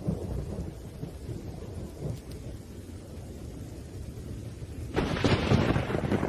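Thunderstorm: low rolling thunder rumbles over steady rain, with a sudden louder crack of thunder about five seconds in.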